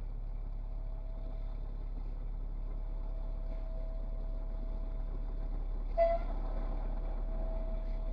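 A vehicle's engine running steadily with a low hum and a thin steady whine. A short knock comes about six seconds in.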